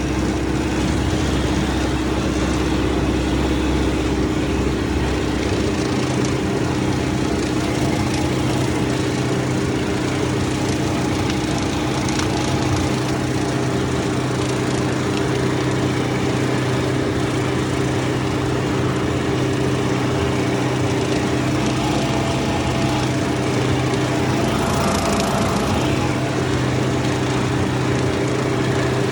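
Tractor engine running steadily under load at an even speed.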